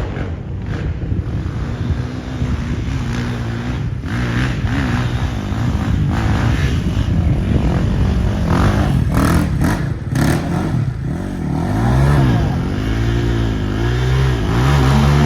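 Off-road quad engine running and revving on a trail ride, its pitch surging up and down repeatedly in the last few seconds. A few short knocks or clatters come about nine to ten seconds in.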